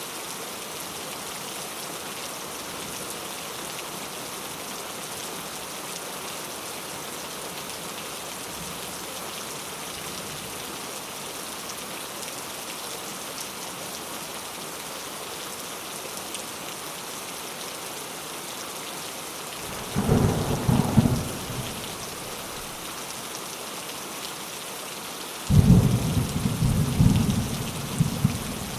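Steady heavy rain falling, with two rolls of thunder: a short one about two-thirds of the way in and a longer, louder one near the end.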